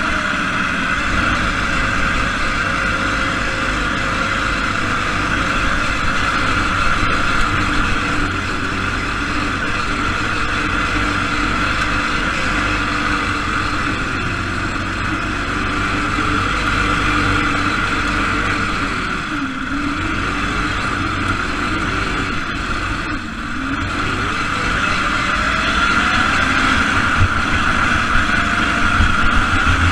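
The single-cylinder Briggs & Stratton engine of an SAE Baja off-road car, heard on board, running under load over a dirt course. Its revs drop and climb back twice in the second half as the driver eases off and gets back on the throttle.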